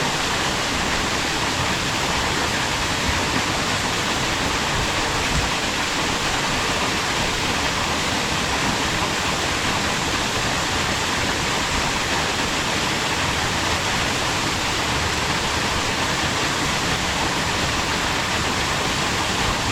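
Waterfall rushing steadily, a constant dense hiss of falling water with no change or breaks.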